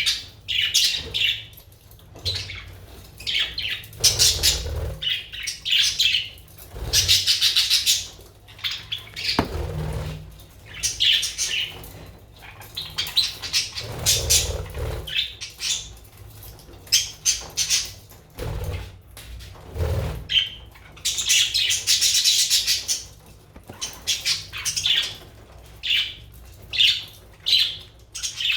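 Pet budgerigars chirping and chattering in short, irregular bursts, with spells of noisy rustling or wing fluttering and a few dull thumps.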